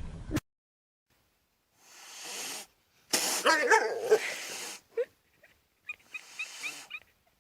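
A pet animal crying out: one loud wavering cry about three seconds in, then a few short chirp-like calls.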